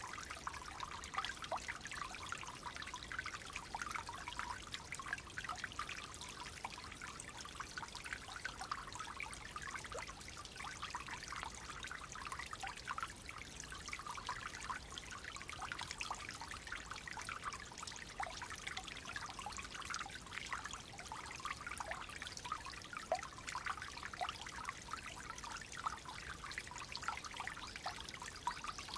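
Clear flowing water trickling and babbling steadily, a dense continuous patter of small splashes.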